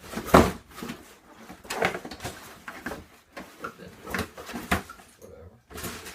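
A shipping package being opened by hand: irregular tearing and rustling of the packaging in short bursts.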